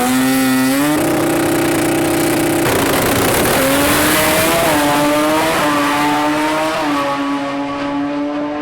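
Rotary-engined drag car making a six-second pass at full throttle: a loud, high-pitched engine note whose pitch jumps and climbs again several times.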